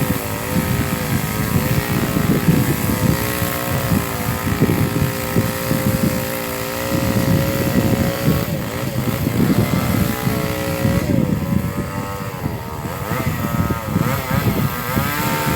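A small engine running, its pitch wavering up and down, with several quick swoops in the second half.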